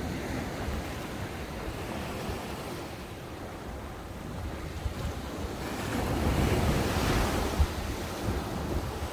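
Ocean waves breaking on a sandy beach, the surf easing in the middle and building to a louder wash of a wave near the end, with wind buffeting the microphone.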